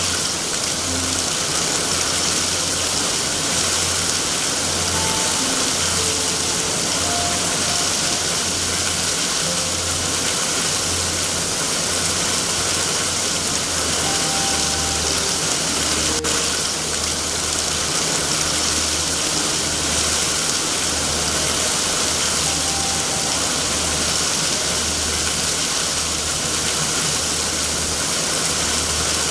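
Steady hiss of heavy rain, with a low rumble that swells and fades underneath about once a second, and a single sharp pop about sixteen seconds in.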